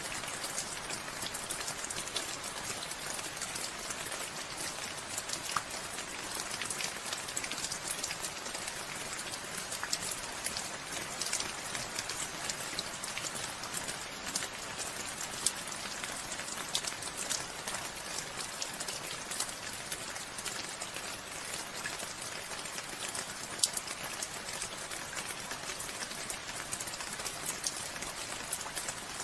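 Steady rain falling, a dense hiss with many small drop ticks on surfaces.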